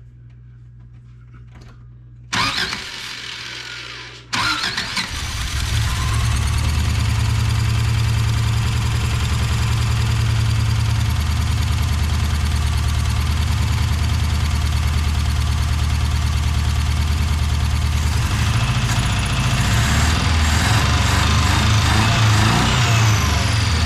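Subaru BRAT's swapped-in engine cranked by the starter for about two seconds, then catching and running loudly and steadily, with its sound changing about three quarters of the way through. It is running rough though not missing, with no chirp heard, which the owner cannot yet explain.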